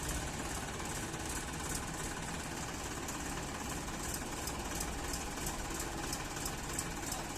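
Massey Ferguson 7250 tractor's diesel engine running steadily, with a regular high-pitched ticking about three times a second.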